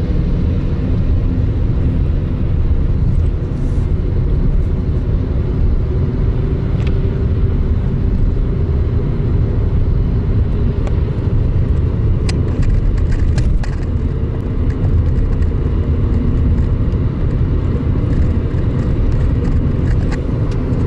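Lada Granta's engine and road noise inside the cabin, a steady drone as the car gathers speed in Drive with its Jatco JF414E automatic in overdrive.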